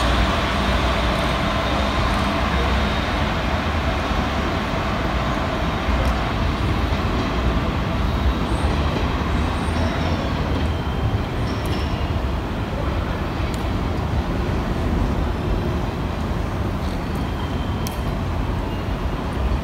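KiHa 40 diesel railcar running with a steady low rumble, a faint hum fading over the first few seconds.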